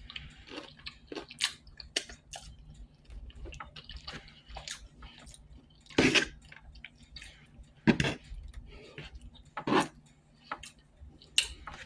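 Close-up eating sounds: chewing and wet mouth clicks as someone eats a fried chicken and biscuit meal, with three louder smacks about six, eight and ten seconds in.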